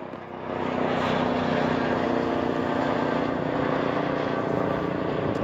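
Military helicopter flying over, its rotor and engine sound growing louder during the first second and then holding steady.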